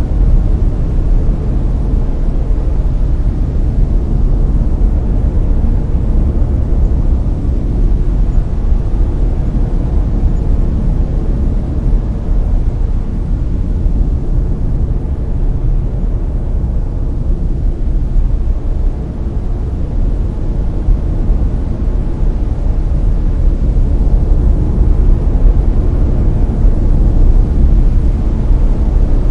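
Steady, deep brown noise: a continuous low rumbling hiss with most of its weight in the bass, unchanging throughout.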